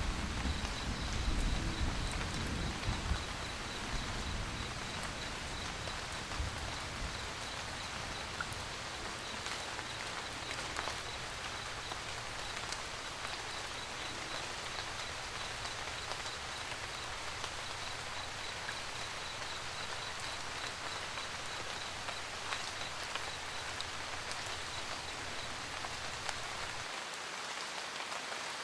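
Steady rain pattering on a camper van roof, with a low rumble of distant thunder dying away in the first few seconds. A faint, evenly pulsing high-pitched tone runs under the rain.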